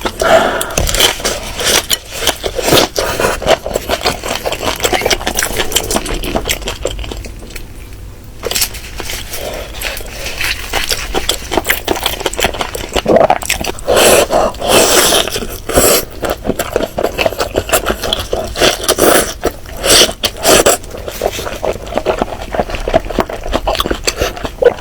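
Close-miked eating sounds: chewing and biting chicken, with a dense run of crackles, clicks and scrapes, easing off briefly about a third of the way in.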